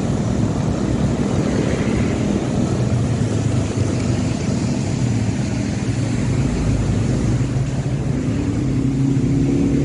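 Motorcycle engine running steadily while riding, over a rushing road and wind noise. Its note rises a little near the end.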